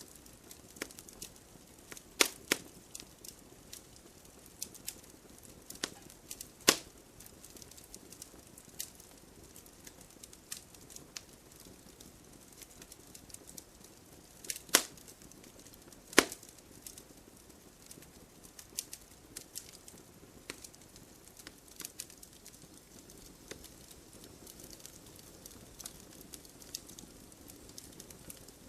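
Wood fire in a fireplace crackling, with irregular sharp pops of burning logs, a few much louder than the rest, over a faint hiss.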